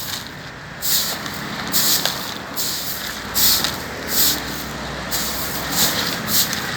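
Broom sweeping sand and grit off a road surface: a run of short, scratchy strokes about one or two a second, over a steady rumble of passing traffic.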